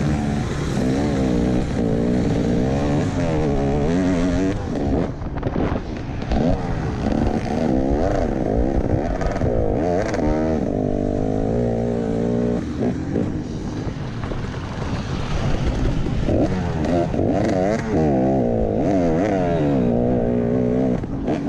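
Motocross bike engine heard from a camera mounted on the bike, revving up and falling back over and over as the throttle is opened and closed and the gears change. The revs drop off briefly about five seconds in and again near the middle.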